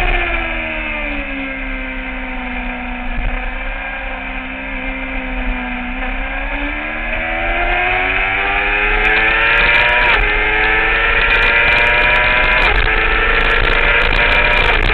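2009 Kawasaki ZX-6R's inline-four engine heard from onboard: the revs fall away as the bike slows, hold low for a few seconds, then climb steadily under acceleration, with a quick upshift about ten seconds in and another a couple of seconds later.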